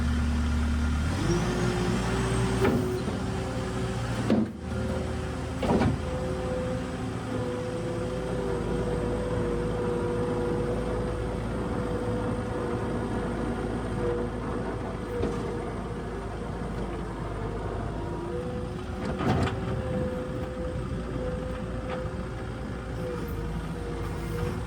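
New Holland skid steer's diesel engine and hydraulics running as it plows snow, with steady whining tones. The pitch steps up about a second in as the engine speeds up, and there are a few short clunks.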